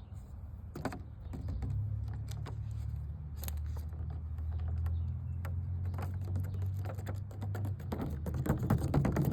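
ASMR tapping and scratching on an object: quick, irregular clicks and taps that grow denser and louder near the end, over a low steady rumble.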